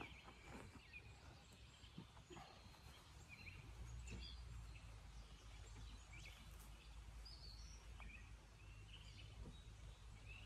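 Near silence: faint outdoor ambience with scattered distant bird chirps and a low rumble that comes up a few seconds in.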